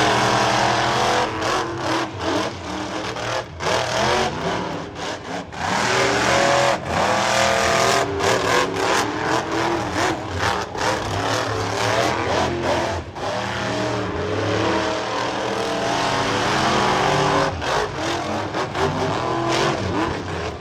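Monster truck engines revving hard, the pitch rising and falling with the throttle and cutting out briefly again and again.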